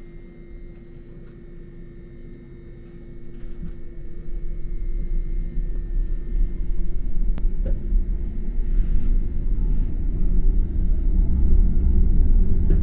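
Gornergrat electric rack-railway train pulling away, heard from inside the carriage: a low rumble that builds from about three seconds in as the train gathers speed, over steady high-pitched tones.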